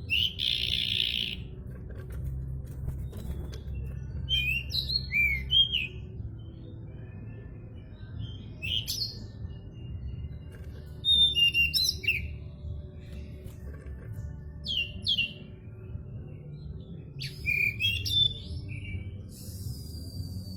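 Pied bushchat (decu) singing short chirping phrases at intervals of a few seconds. A steady low rumble runs underneath.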